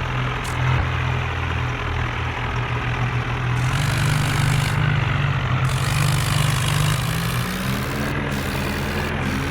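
Tractor engine running steadily under load, its pitch rising briefly near the end as the engine speeds up.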